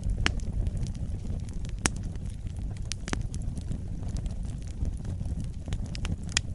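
Wood fire crackling in a fireplace: a steady low rumble of the flames with scattered sharp pops and snaps, a few louder ones spread through.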